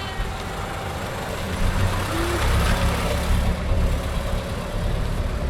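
Antique car engine running as the car drives by: a low rumble that grows louder about a second and a half in and eases off a little near the end.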